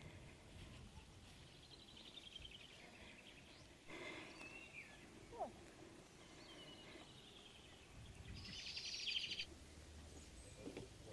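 Faint birdsong outdoors: several short high calls and warbled phrases, with a louder buzzy trill lasting about a second near the end, over a quiet background hush.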